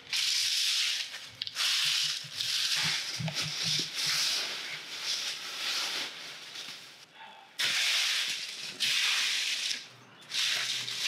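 A broom brushing dry leaves across brick paving in repeated hissing strokes about a second each, with a short pause about six seconds in.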